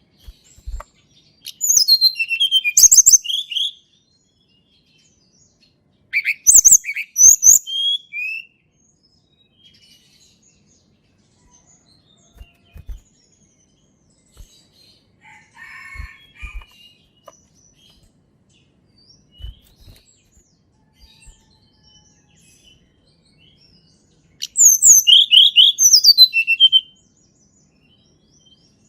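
A tledekan gunung songbird singing in three loud bursts of quick, high chirps and slurred whistled notes, each lasting about two seconds, with long pauses between them: one near the start, one about six seconds in and one near the end. Faint scattered notes and a few soft knocks fill the gaps.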